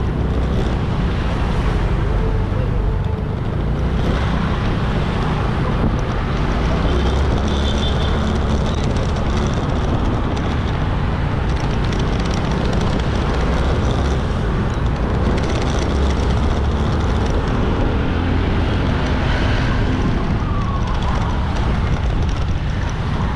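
Motorbike riding through busy street traffic: a steady rumble of wind buffeting the microphone over the bike's engine and the traffic around it.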